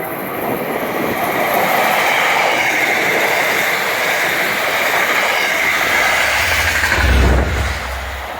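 A train running past the platform close by: a steady rush of wheels on rails, with a deep rumble swelling near the end before the sound starts to fade.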